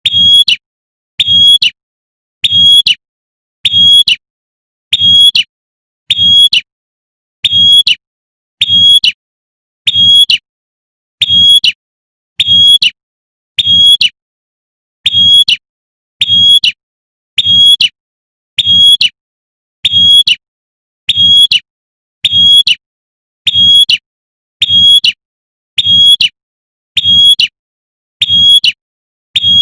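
Female prinia (prenjak) giving its short, sharp 'tembakan' call, repeated evenly about every 1.25 seconds as a looped lure call to draw in males. Each call is loud and high-pitched, with a low hum under it and dead silence between calls.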